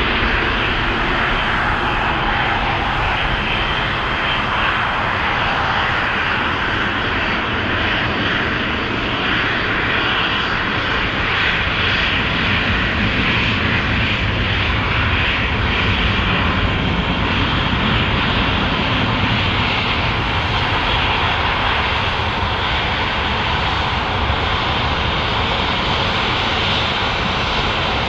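Jet airliner's engines running steadily at idle as it holds on the runway, a continuous even rush with no rise in power.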